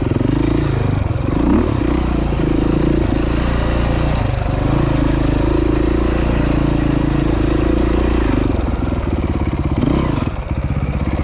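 Four-stroke off-road engine running on a trail ride, its pitch rising and falling with the throttle, with a short ease-off about ten seconds in.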